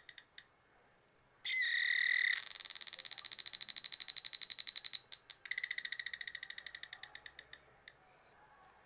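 Homemade BC547/BC557 transistor doorbell circuit sounding through a 5 W speaker: a shrill tone comes on about a second and a half in, breaks into a rapid pulsing trill and fades out, then starts again about five and a half seconds in and fades the same way. The dying pulses of an earlier ring trail off at the very start.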